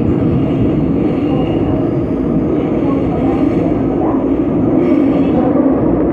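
Seoul Subway Line 5 train running at speed: a steady rumble of wheels on rail, with a faint high whine above it.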